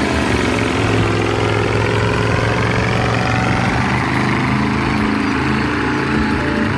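Heavy MAN KAT off-road recovery truck's diesel engine running hard under load, a steady loud drone whose pitch shifts slightly.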